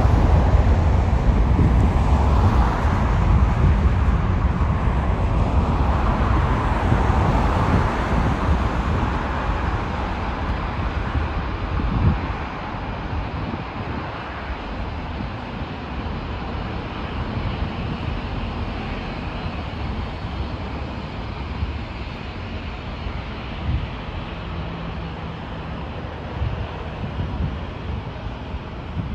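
Jet airliner passing, loudest at the start and fading away over about the first ten seconds into a steady low rumble.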